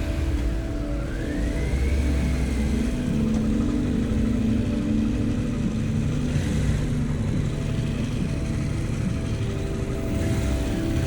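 Harley-Davidson Pan America's 1250 V-twin engine running steadily under way, with wind and road noise heard from the moving motorcycle. The engine note shifts in pitch a little about three seconds in and again near the end.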